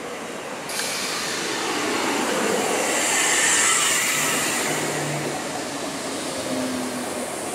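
ScotRail Class 320 electric multiple unit running in along the platform: a steady rush of wheel and rail noise that rises sharply about a second in, is loudest halfway through, then eases off as the train slows.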